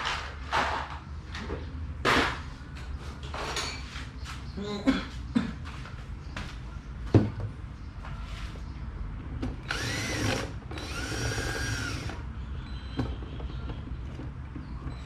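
Clicks and knocks of parts being handled, then a small power drill or screwdriver whirring in two short bursts, each speeding up and then slowing down, about two-thirds of the way in.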